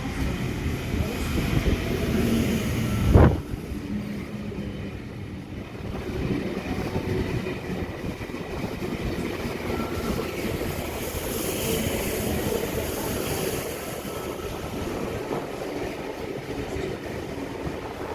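V-set electric train running, a steady noise of the train in motion, with one loud thump about three seconds in.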